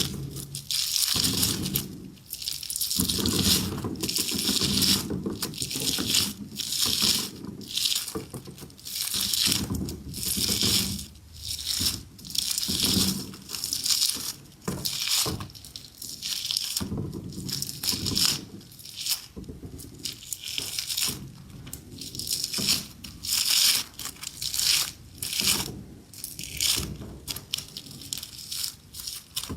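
Overlapping crunching and crackling of objects being crushed and handled, a run of short noisy strokes coming roughly one or two a second.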